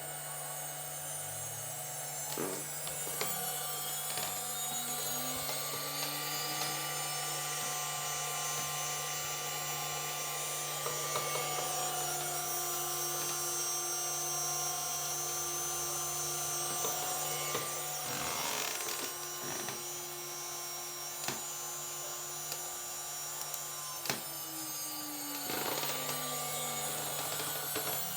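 CNC milling machine running: a steady motor hum with whining tones that glide up in pitch near the start and down near the end as the axis motors speed up and slow down, with scattered short clicks from the cutting.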